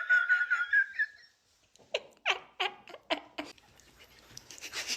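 High, wavering squeal from a person's voice that trails off about a second in, then about five short yelping squeaks in quick succession: silly animal-like noises made as the sound for a funny face.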